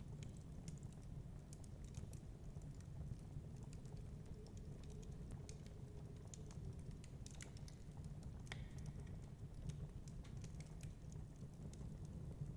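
Wood fire crackling with irregular small snaps and pops over a low, steady rumble.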